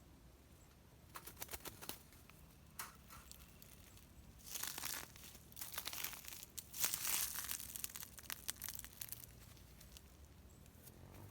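Crinkling, rustling handling noise: a few sharp clicks in the first two seconds, then bursts of rustling that are loudest a little past the middle and fade out.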